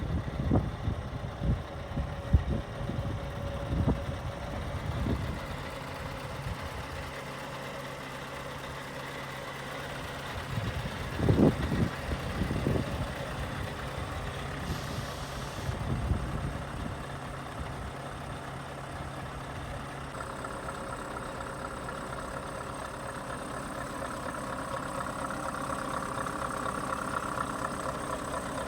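Scania R580 truck's 16-litre V8 diesel idling steadily. Several dull thumps come in the first five seconds and again about eleven to thirteen seconds in, and a higher hum joins about two-thirds of the way through.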